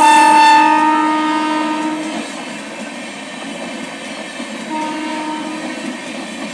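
Indian Railways train horn: a long blast that fades out about two seconds in, then a second, shorter blast around five seconds in, over the steady rumble and wheel clatter of the passing train.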